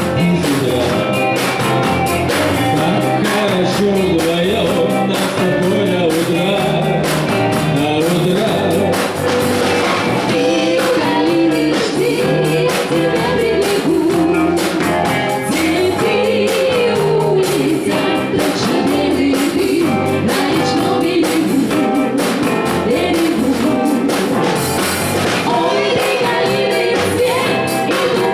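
Live band playing a song with a singer, heard through the stage sound system.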